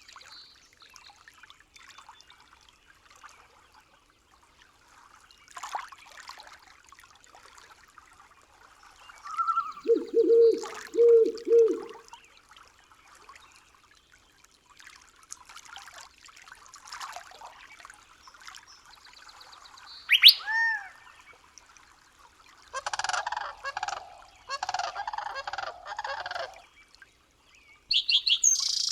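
Wildlife calls over a faint stream in a forest soundscape. Four low, pulsed calls come about ten seconds in, a sharp rising whistle followed by a falling note about twenty seconds in, then a longer series of harsh repeated calls, and high chirps near the end.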